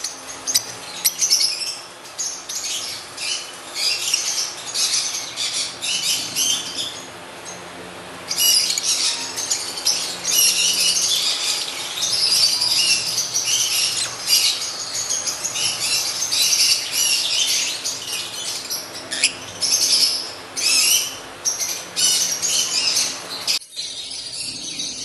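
Lutino African lovebirds chattering: a dense run of rapid, high-pitched chirps and squeaks, with a short lull about seven seconds in and a sudden drop to softer chatter near the end.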